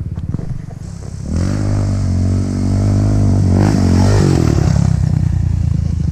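Engine of an off-road machine accelerating hard toward a jump. It revs up about a second in and climbs in pitch for about three seconds, then drops away with a short clattering crunch, over a steady idling engine close by.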